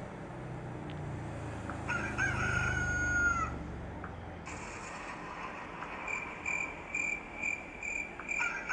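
A bird calling: one long, slightly falling call about two seconds in, then a string of short high calls at about two a second near the end. A low rumble runs under the first half.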